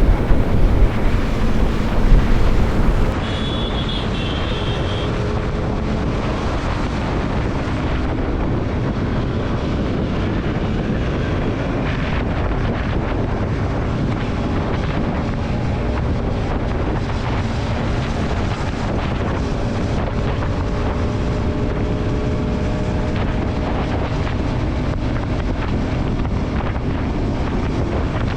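Wind rushing over the microphone of a motorcycle riding at highway speed, with a steady engine hum underneath. It gusts louder for the first few seconds, then settles to an even rush.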